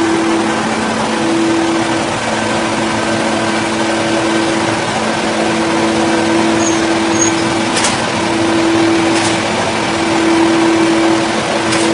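An engine-driven saw running steadily, a constant hum with a hiss of cutting noise over it. A few short clicks come near the end.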